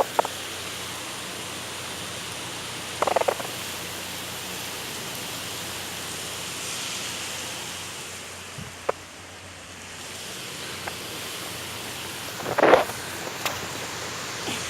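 Heavy rain falling, a steady hiss. A few short louder bursts cut through it, about three seconds in and near the end, with a sharp click in between.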